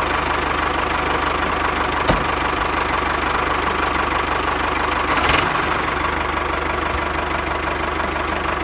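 Small engine of a homemade mini tractor running steadily with a clattering, knocking note, with a brief click about two seconds in.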